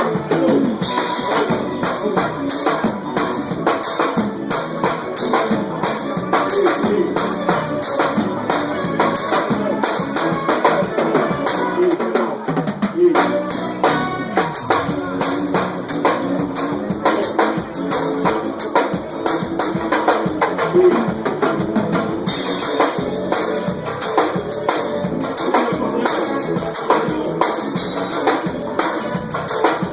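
Forró band playing a song, with the drum kit prominent: kick drum, snare and rimshots. A quick drum roll comes about halfway through.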